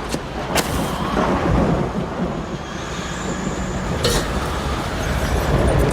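Film sound effects of a tornado: a loud, steady rumbling roar of wind, with sharp cracks about half a second in and at about four seconds.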